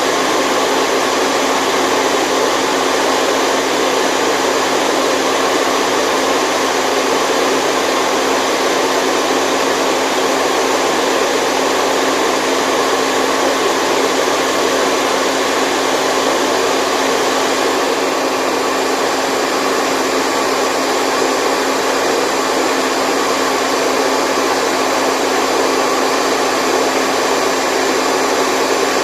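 Steady white noise for a baby's sleep: a loud, even hiss with a faint steady hum beneath it, unchanging in level throughout.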